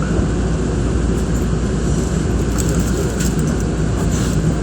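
Nankai electric commuter train running slowly, heard from inside: a steady low rumble with a few faint clicks.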